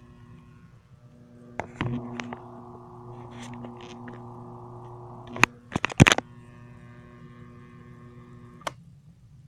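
Box fan motor running without its blades, with a steady electric hum. From about two seconds in, a buzzing vibration joins the hum, from a Kindle resting on the fan. The buzz ends with a cluster of loud knocks about five and a half to six seconds in, and there is one more click near the end.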